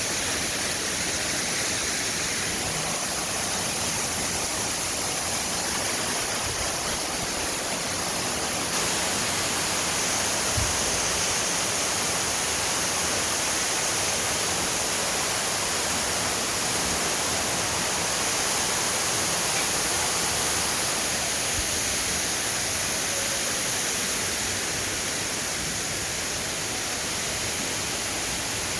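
Steady rushing hiss of running water, even and unbroken, strongest in the high range, with a thin steady high whine above it.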